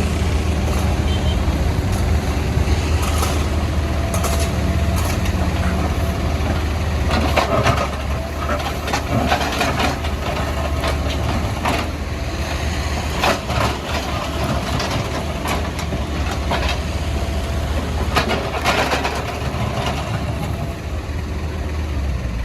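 Backhoe loader's diesel engine running steadily, with irregular knocks and cracks as the bucket breaks up the road surface, coming in clusters in the middle and towards the end.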